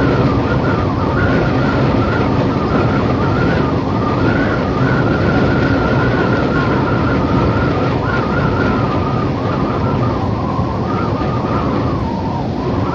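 Howling wind: a steady rush of noise with a wavering, whistling tone riding over it that rises and dips slowly.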